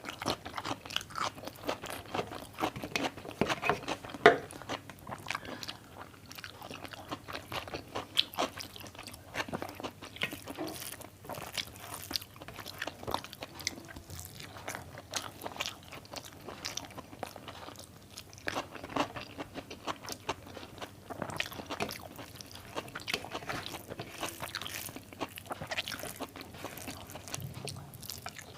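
Close-miked eating: chewing and crunchy bites of a rice meal, a steady run of short mouth clicks and crackles with a few brief pauses.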